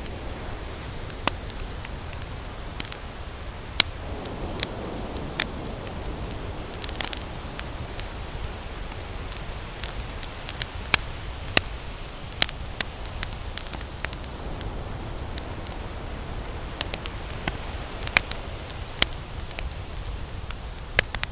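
Wood campfire crackling: irregular sharp pops and snaps, one to a few a second, over a steady low rushing background.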